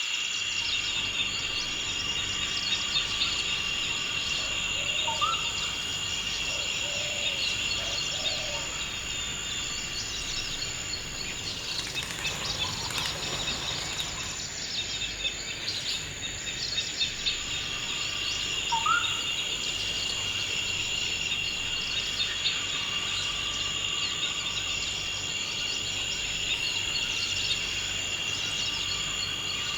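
Forest ambience: a steady, high-pitched chorus of insects such as crickets, with a few short bird chirps, one about five seconds in and another near twenty seconds.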